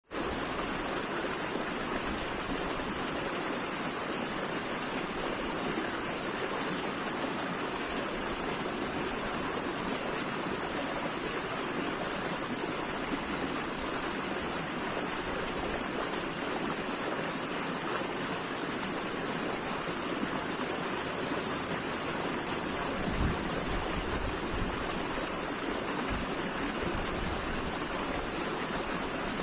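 Steady rushing of flowing water, like a stream or small waterfall, with a hiss that holds even throughout and a couple of brief low bumps near the end.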